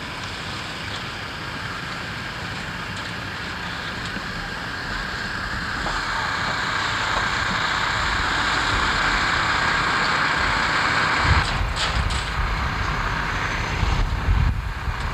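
Steady vehicle noise that grows louder over about ten seconds, with sudden low rumbling bumps twice near the end.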